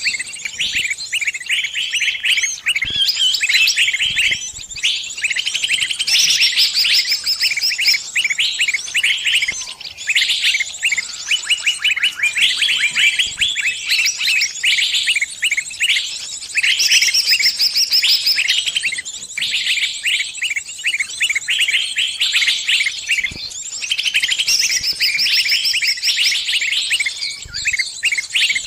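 Small bird giving rapid, high, squeaky distress chirps in dense runs with short breaks: the alarm and help calls of a trapped bird.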